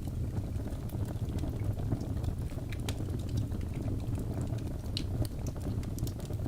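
Logs burning in a fireplace: a steady low rumble of flame with frequent sharp crackles and pops, and a brighter pop about five seconds in.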